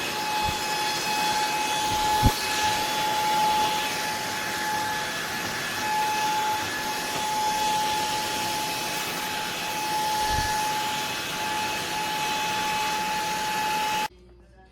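Eureka ReactiClean cordless stick vacuum running, a steady high motor whine over rushing airflow hiss, with a few low knocks, the sharpest about two seconds in. The motor cuts off suddenly just before the end.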